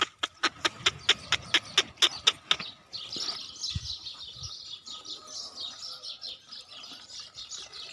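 A rapid run of sharp clicks, about five a second, that stops after about two and a half seconds, followed by a dense chorus of small birds chirping.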